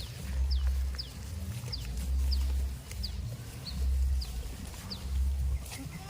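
A small bird repeating a short, high call that slides downward, about twice a second, over low rumbling that swells and fades every second or two.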